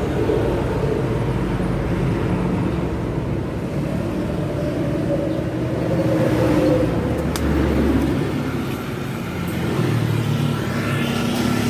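Mitsubishi Canter truck's diesel engine running through an aftermarket 'wolf-sound' exhaust. The engine note swells about six seconds in, drops back a couple of seconds later, then picks up again.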